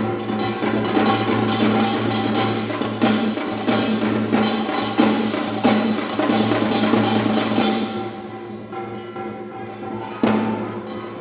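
Live Korean traditional percussion ensemble playing: janggu, buk and kkwaenggwari in quick, dense strokes with bright metallic clangs, over held steady tones. The playing thins out about eight seconds in, and a strong stroke comes near the end.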